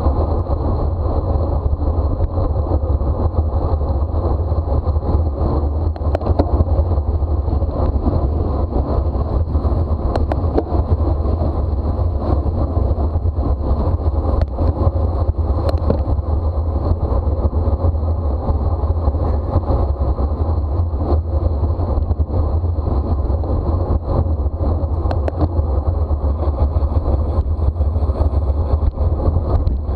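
Wind rushing over the microphone of a camera riding on a racing bicycle at criterium speed, a steady heavy rumble, with tyre and road noise underneath.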